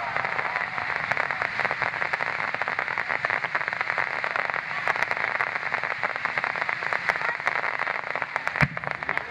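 Large aerial firework shells crackling: a dense, continuous crackle of countless small pops from the bursting stars, with one sharper, louder bang near the end.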